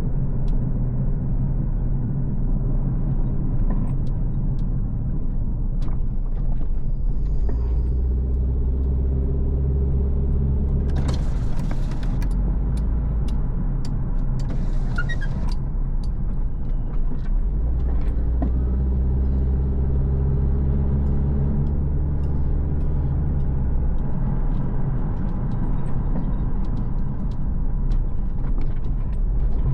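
Car driving along a road: a steady low engine and tyre rumble that swells for stretches of several seconds, with scattered small knocks and two brief hissing rushes about eleven and fifteen seconds in.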